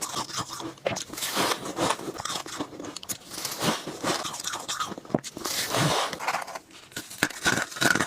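Ice cubes being bitten and crunched between the teeth, a rapid run of sharp cracks and crunches, sped up to double speed.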